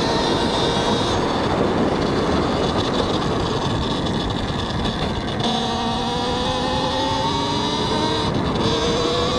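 Talaria X3 electric dirt bike under way, with steady wind and tyre noise and a high steady whine. Past the halfway point the electric motor's whine climbs in pitch as the bike accelerates.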